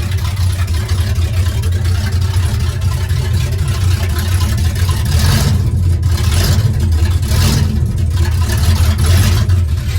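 Classic Ford truck's engine running unevenly at idle, with two brief surges about five and seven and a half seconds in. It keeps wanting to stall, which the owner puts down to a carburetor that needs rebuilding or to the engine still running cold.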